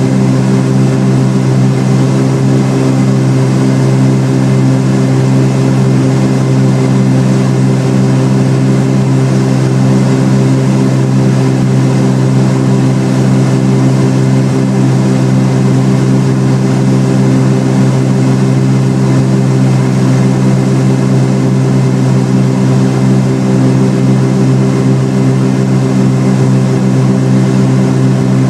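Cessna 310R twin piston engines and propellers running at a steady power setting, a constant loud drone with a deep hum that holds one pitch throughout.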